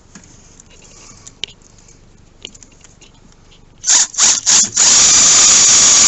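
A power drill-driver tightening a hose clamp: a few quiet handling clicks, then three short blips of the drill about four seconds in, then a steady loud run of about two seconds.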